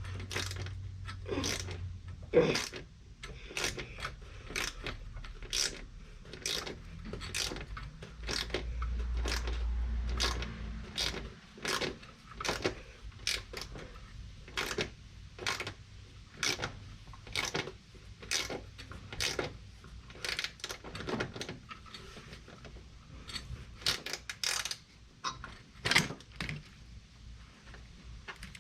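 Socket ratchet clicking over and over, about two clicks a second, as bolts on the engine brackets are worked loose, with small metal taps of the tools. A brief low rumble comes about nine seconds in.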